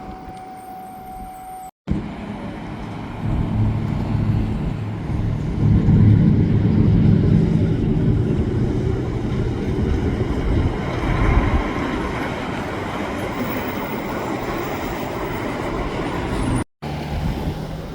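Garbage truck engine running with a steady low rumble that swells in the middle. It is broken twice by brief silent gaps.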